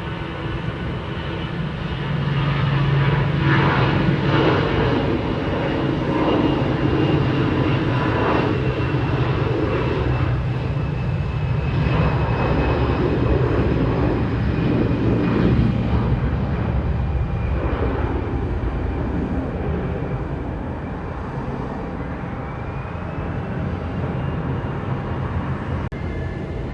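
Jet airliner's engines running loud as the aircraft passes, with a high fan whine over the noise. The sound builds about two seconds in and eases a little after about sixteen seconds.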